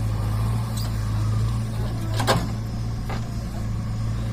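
Diesel engine running steadily at low revs, with a sharp metallic knock a little past halfway and a fainter click soon after.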